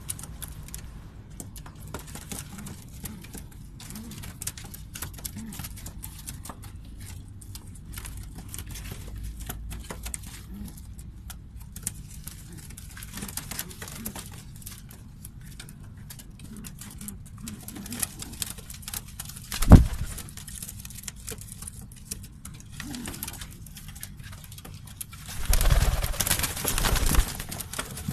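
Pigeons cooing in short low notes, with scattered small clicks and scratches. There is a single sharp thump about two-thirds of the way through, and a louder, rustling burst of about two seconds near the end.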